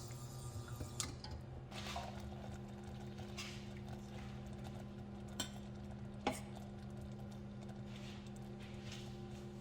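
A few light clicks and knocks over a steady low hum, which takes on a second, higher tone about two seconds in.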